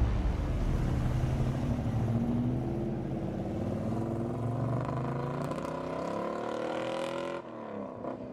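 A classic American car's engine rumbling as it drives past and pulls away, its pitch rising as it accelerates. It cuts off abruptly about seven seconds in.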